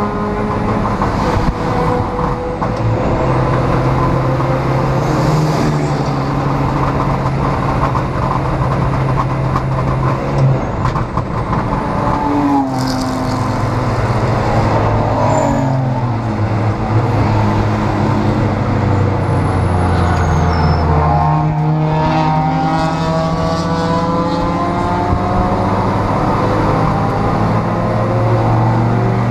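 Neon race car's four-cylinder engine running hard, heard from inside the stripped cabin under wind and road noise. Its pitch steps up and down through gear changes, falls away twice around the middle, then climbs again towards the end.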